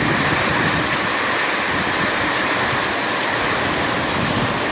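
Heavy rain pouring steadily onto a street that is running with water: an even, unbroken hiss.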